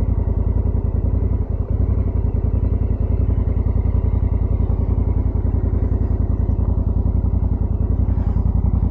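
Motorcycle engine running steadily with an even, fast low pulsing beat.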